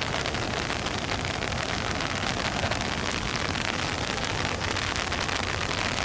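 Steady rain falling, with a dense, even hiss of many small drops striking close to the microphone.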